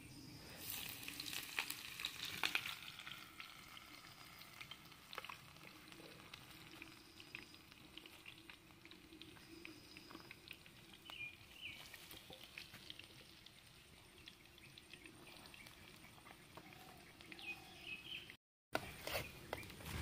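Egg mixture frying in hot oil in a pan over a wood fire: a crackling sizzle that is loudest a second or two in, then settles to a steady, faint sizzle with scattered small pops as it is stirred with a spoon.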